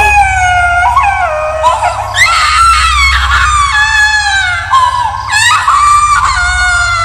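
Horror sound effect of a ghostly baby crying and screaming: a string of long, high-pitched wailing cries that mostly slide down in pitch, over a steady low droning hum.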